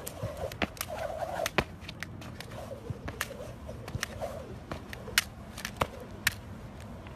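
A bird's short warbling calls, several times over, among many sharp clicks.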